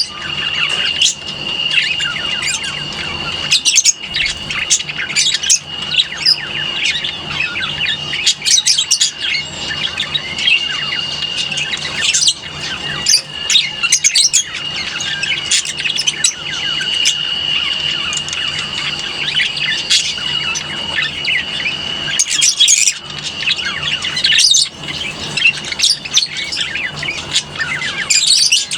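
A flock of lovebirds chattering and chirping continuously, with louder sharp shrieks every few seconds and a steady high-pitched tone running underneath.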